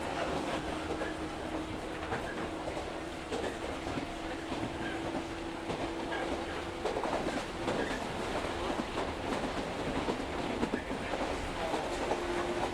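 Local electric train running along the track, heard from inside the carriage: steady rolling noise with the clickety-clack of wheels over rail joints and a steady motor hum that fades about halfway through and returns slightly higher near the end.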